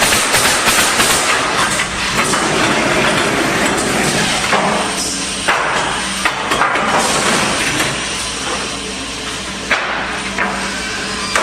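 2019 Woodpecker Junior pallet nailing machine at work: rapid nail-gun shots and knocks with air hissing, over a steady motor hum.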